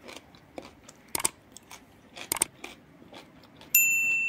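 Crisp crunching of someone chewing fermented vegetables: several sharp crunches at irregular intervals. About three and a half seconds in, a steady high electronic beep sounds for about a second, the sound effect of a subscribe-button overlay.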